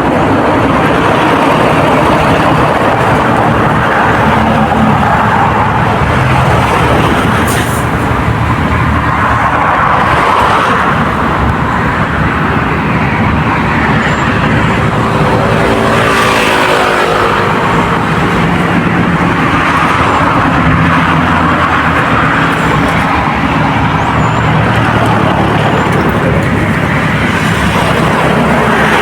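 Steady road-traffic noise of passing motor vehicles, with one vehicle passing close and its engine pitch sliding down about halfway through.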